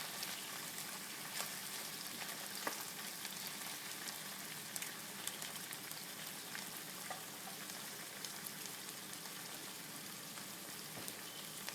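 Tomato and onions frying in oil in a pan: a steady, even sizzle, with a few faint clicks scattered through it.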